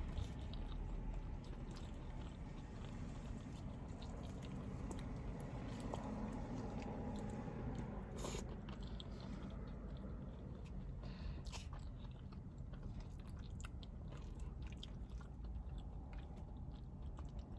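A person chewing and biting chili cheese fries, with scattered small mouth clicks throughout.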